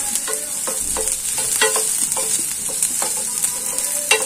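Chopped onion and corn kernels sizzling in oil in a stainless steel frying pan, stirred with a wooden spatula. The spatula scrapes and knocks against the pan about two or three times a second over the steady hiss of the frying.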